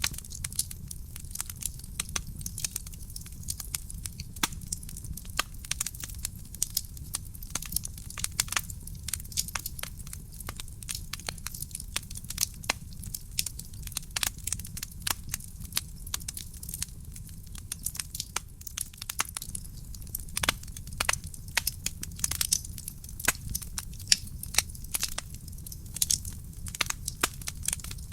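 Wood fire burning in a fireplace: a dense run of sharp pops and crackles over a steady low rumble of the flames.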